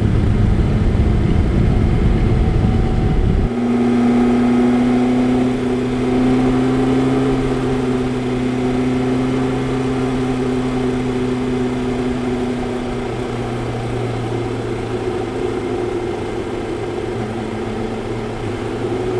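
BMW S1000-series motorcycle's inline-four engine running at a steady cruising speed on the move. A heavy low rumble covers it for the first three and a half seconds and then stops abruptly, leaving a steady engine note.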